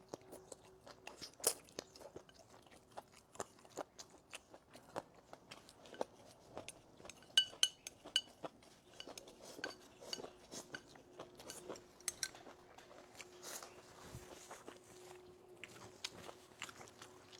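Close-up eating sounds: chewing and crunching mixed with light clicks of chopsticks against a bowl, with a few brief ringing clinks of chopsticks on the bowl rim about halfway through.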